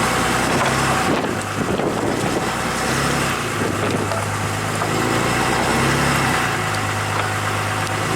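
A vehicle engine running steadily, its pitch shifting slightly now and then, with wind noise on the microphone.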